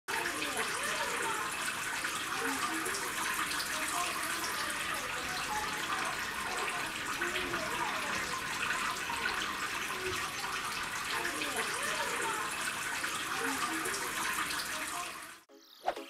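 Water falling in many thin streams from a small homemade cement waterfall fountain and splashing into its basin: a steady rush that cuts off suddenly near the end.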